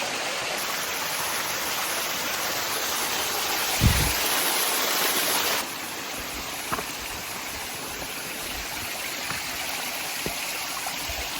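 Creek water rushing steadily over rocks and a small cascade, with a dull thump about four seconds in and a few light knocks later on. The rushing becomes a little quieter after about five and a half seconds.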